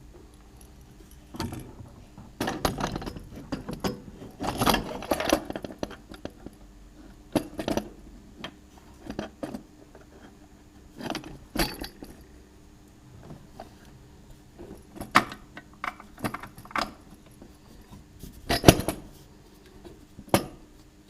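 Intermittent metal clinks and short rattles of parts being handled as carburettors are fitted onto an engine, with louder clusters about a third of the way in and near the end.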